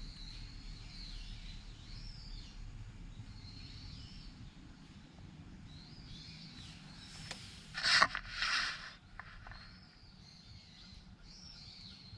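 Birds calling with short, high, repeated chirps. About eight seconds in come two short, loud, harsh sounds, half a second apart.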